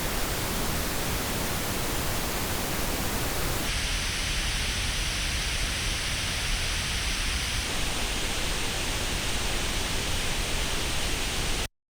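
Steady pink noise test signal played through wireless earbuds and picked up in an artificial ear simulator. Its tone colour changes abruptly about four seconds in and again about eight seconds in, as the measured earbud setup switches, then it cuts off suddenly just before the end.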